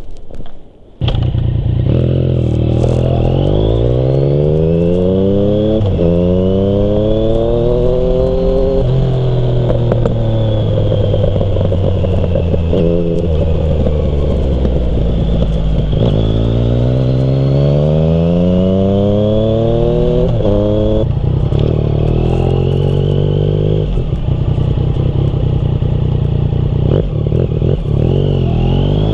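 Yamaha MT-09's inline three-cylinder engine running through a Termignoni exhaust under way. About a second in it comes in loud, then the revs climb and drop back again and again as it pulls through the gears, with stretches of steady or falling revs between.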